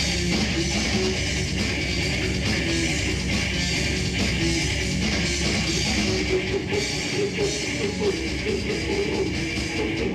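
Live heavy rock band playing: distorted electric guitars over a drum kit, steady and loud.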